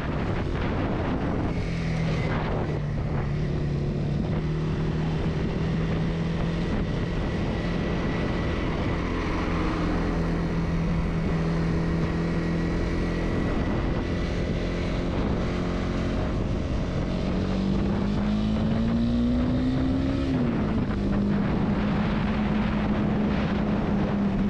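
Honda CB300R's single-cylinder engine pulling steadily under way, with wind and road noise. Late on the revs climb, drop suddenly with an upshift, then hold steady again.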